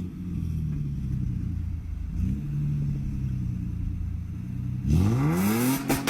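Car engine idling steadily, then revved hard about five seconds in, its pitch climbing quickly in a loud 'vrrrphaaa'.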